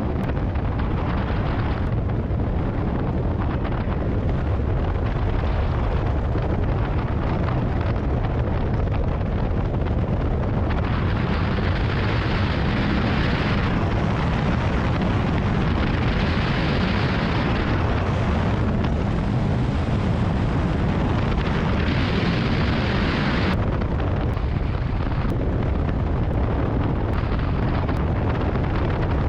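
Strong wind buffeting the microphone: a steady low rumble, with three stretches of brighter hiss as gusts come through in the middle.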